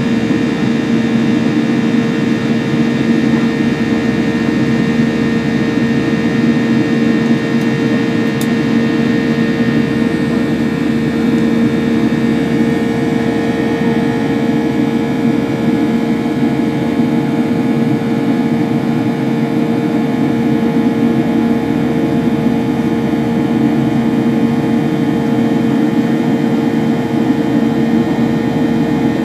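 Boeing 737-800's CFM56 jet engines running at a steady power, a constant loud drone with a steady two-pitch hum that neither rises nor falls.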